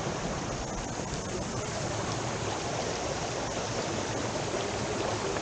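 Mountain stream rushing over rocks, a steady even wash of water noise.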